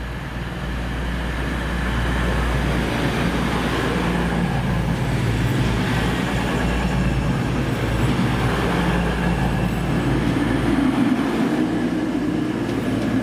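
Diesel train running through the station, its engine and wheel noise growing louder over the first couple of seconds and then staying steady.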